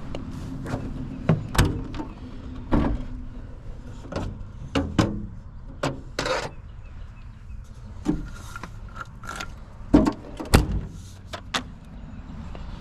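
Diesel engine of compact construction equipment running steadily, with a dozen or so irregular sharp metal clanks and knocks, the two loudest about ten seconds in.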